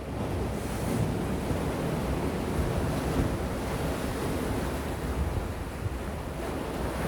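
Gentle sea waves washing on the shore in a continuous, even wash that swells slightly about a second in, over a steady low rumble.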